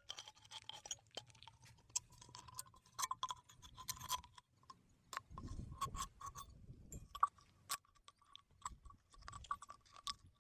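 Thin aluminium drink can being cut open with a utility knife blade: irregular crackling, crunching and clicking of the metal, with a few sharper snaps.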